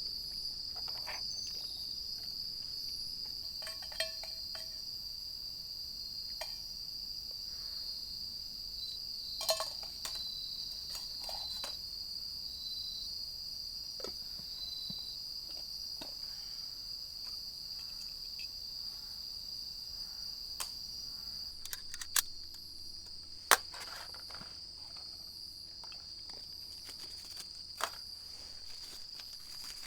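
Steady, high-pitched chorus of late-summer insects trilling without a break, with a handful of sharp clicks and snaps scattered through it, the loudest a little past the middle.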